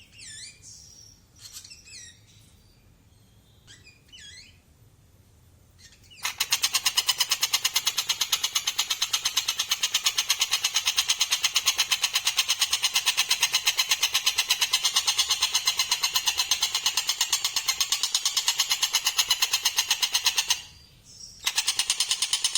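Stork-billed kingfisher (tengkek buto) calling: a few short wavering, falling calls, then from about six seconds in a long, fast, evenly pulsed rattling call that stops briefly near the end and starts again.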